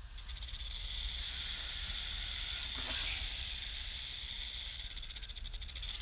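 Dense insect chorus: a high, shrill, steady buzz with a fast pulsing texture that cuts in suddenly and pulses more plainly near the end.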